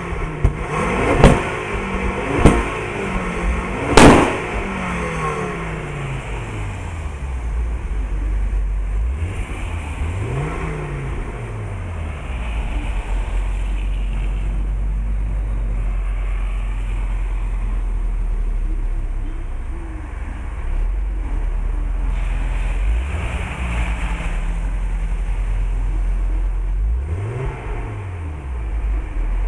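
Audi UrS6 engine being revved hard in quick rising and falling sweeps, with three sharp loud cracks in the first four seconds. It then settles into a steady idle, blipped briefly twice.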